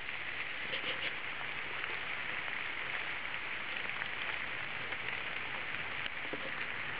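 Heavy rain falling in a thunderstorm downpour: a steady hiss with a few faint ticks of drops.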